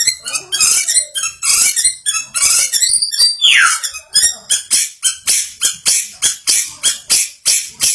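White-rumped shama song: a varied run of high whistles and chattering notes, with one downward-sliding whistle about three and a half seconds in, then a fast series of sharp repeated notes, about four a second, in the second half.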